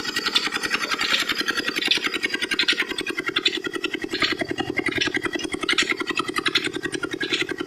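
Old Petter diesel engine running steadily with a fast, even chugging beat, with a sharper metallic clatter repeating a little more than once a second. A rasping noise sits over it in the first couple of seconds.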